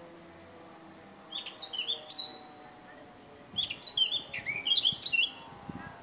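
A songbird singing two short phrases of quick chirping notes, the first about a second in and the second, longer one about three and a half seconds in.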